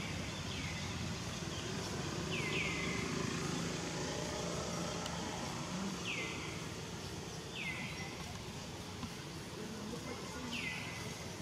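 A bird gives a short call that slides down in pitch, repeated every one to two seconds, often twice in quick succession, over a steady low background rumble.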